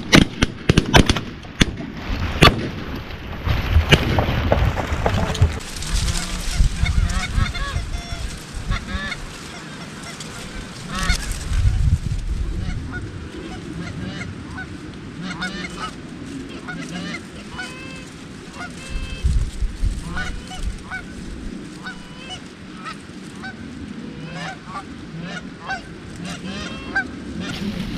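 A rapid volley of shotgun shots in the first couple of seconds, then geese honking: many short calls repeated over and over.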